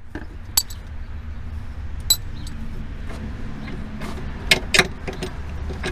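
A few sharp metallic clinks of tools and suspension parts being handled, the last two close together near the end, over a steady low rumble.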